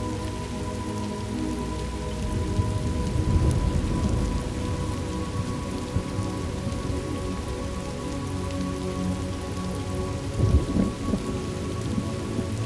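Thunderstorm ambience: steady rain with rolling thunder rumbling from about two seconds in and again, more sharply, around ten seconds in. Soft held tones of an ambient music drone sound underneath.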